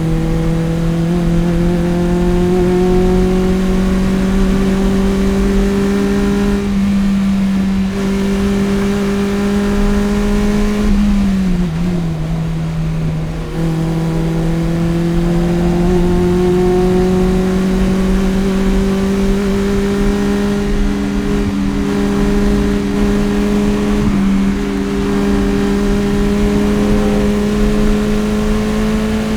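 Toyota 1ZZ 1.8-litre four-cylinder engine of a 2001 Toyota MR-S with an aftermarket header and Fujitsubo exhaust, running hard on track. Its note climbs slowly with engine speed, dips and falls about eleven seconds in, then climbs again.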